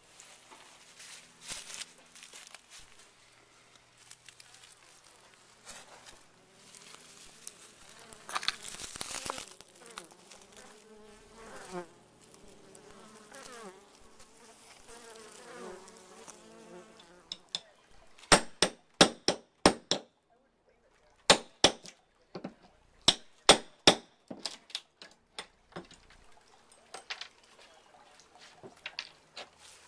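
Honeybees buzzing around a torn-open colony, a wavering hum that rises and falls in pitch. About two-thirds of the way in come two quick runs of loud, sharp knocks, several a second.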